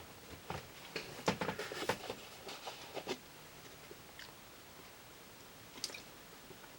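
Faint short clicks and ticks, several in quick succession over the first three seconds and one more about a second before the end, over quiet room tone.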